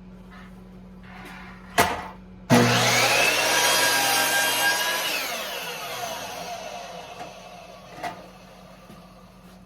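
Electric power saw switched on and trimming a little off the edge of a wooden piece, then switched off and winding down with a falling whine over several seconds. A sharp knock comes just before the saw starts.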